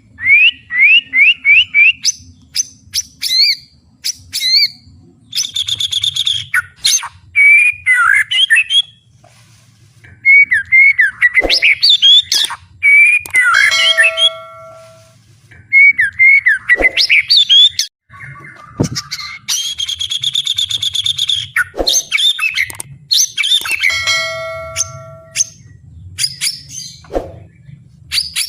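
White-rumped shama singing loudly in full song, its phrases packed with mimicked calls (isian). It runs through quick rising whistles, fast trills and rattles, sharp clicks and a few held notes, with short pauses between phrases.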